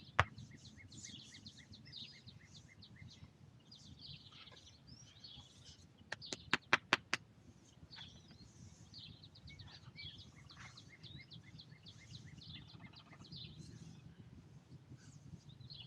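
Small birds chirping and calling throughout, with a quick series of about five sharp knocks on wood about six seconds in and a single knock right at the start: a big woodpecker pecking at a tree.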